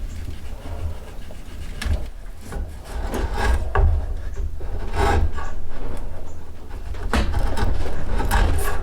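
A hand tool scraping and rasping the wood of a yew bow stave, in uneven strokes about a second apart.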